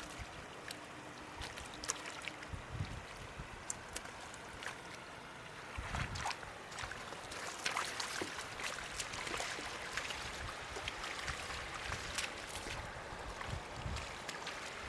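Shallow floodwater splashing and sloshing, with many scattered sharp splashes and a few low thumps, as from someone wading and groping for fish by hand.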